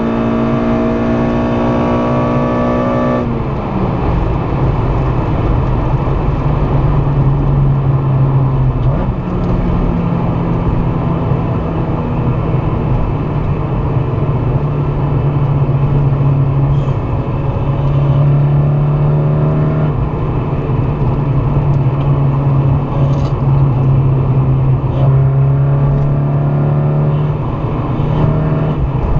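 Honda Civic Si's swapped K24A2 2.4-litre four-cylinder engine running under throttle while driving, over steady road and wind noise. The engine note climbs slightly, then drops sharply about three seconds in and carries on at a fairly steady pitch with small steps up and down.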